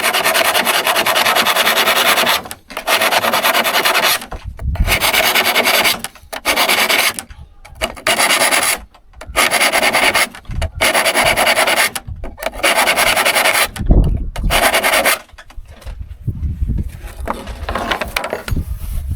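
Hand file sharpening saw teeth: about nine long rasping strokes of a second or so each, with short pauses between. They stop about fifteen seconds in and give way to quieter knocks and handling.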